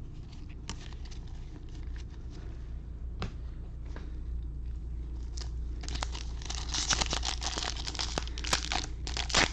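A few light clicks of cards being handled, then from about six seconds in a dense crinkling and tearing as a foil baseball-card pack wrapper is torn open.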